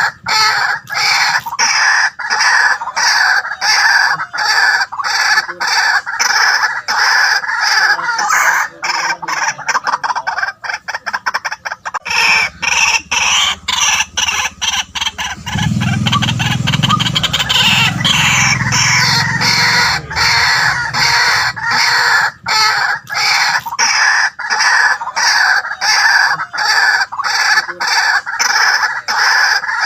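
White-breasted waterhen calling on and on in an even, rapid series of harsh notes, several a second, packing closer together about halfway through.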